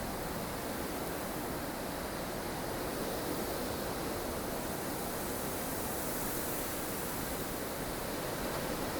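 Recorded snowstorm ambience: strong wind blowing steadily, swelling slightly a few seconds in.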